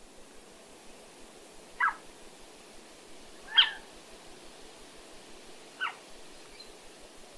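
Recorded elf owl calls played over a speaker: short, high yelps about two seconds apart, three in all, the second one the loudest.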